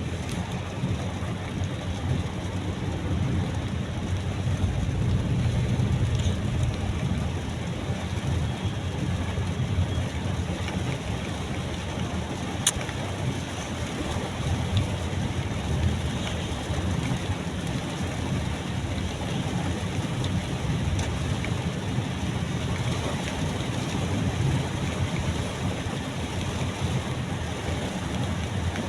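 Heavy rain on a moving car, heard from inside the cabin over a steady low road rumble, with one sharp click about halfway through.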